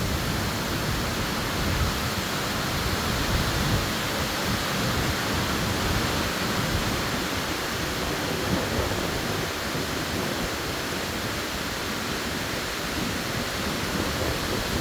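Tropical-storm wind blowing hard through the trees: a steady rushing that swells and eases slightly.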